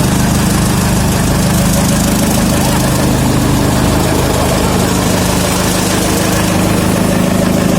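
Tractor diesel engine running at a steady speed while driving a Singhsakti chaff cutter, a constant loud drone.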